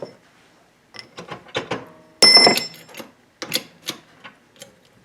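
Metal tools and front-end parts clicking and knocking during hand work on a VW beam's spindle and link pins, with one louder ringing metal clank about two seconds in.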